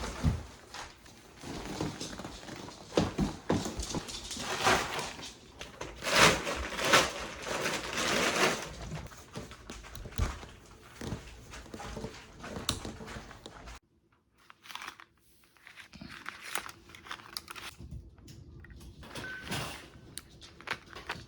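Things being handled and moved: irregular rustling and crinkling, with scattered knocks and footsteps. It drops off suddenly about two-thirds of the way through, then goes on more quietly.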